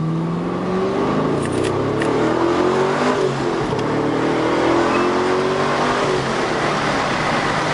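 2010 Chevrolet Camaro with Kooks headers and a 3-inch stainless cat-back exhaust accelerating, its exhaust note climbing in pitch. About three seconds in the pitch drops, as at a gear change, then it climbs again and levels off near the end.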